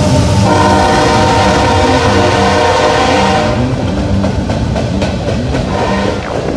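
Freight train passing close by. A diesel locomotive horn sounds a long, steady chord that stops about three and a half seconds in, over the rumble of the locomotives and the noise of the freight cars' wheels rolling on the rails.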